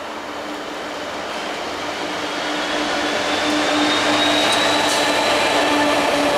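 Class 66 diesel locomotive, with its EMD two-stroke engine running, passing with an intermodal container train, getting louder as the locomotive draws level and the container wagons roll by. A thin high whine comes in during the second half, with a few clicks from the wagons.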